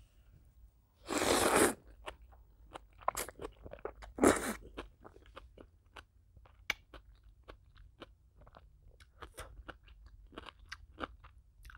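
Close-miked eating of soft ramen noodles coated in melted cheese. There is a long slurp about a second in and a shorter one around four seconds, followed by steady closed-mouth chewing with many small wet mouth clicks.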